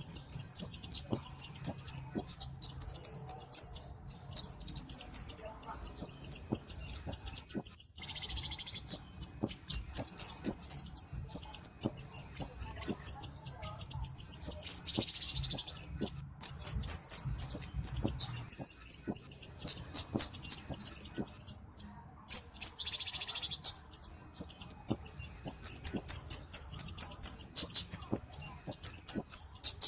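A flowerpecker (the Indonesian 'cabe-cabean') sings high-pitched chittering trills. Runs of quick, sharp notes go on for a few seconds at a time, with brief breaks and a few short hissy rasps between them.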